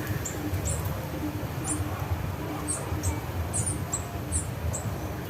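Small songbirds calling with short, high, thin chirps, each dropping slightly in pitch, about two a second, over a steady low rumble.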